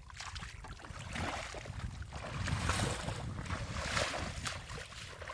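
Water sloshing and splashing in several swells, over a low rumble of wind on the microphone.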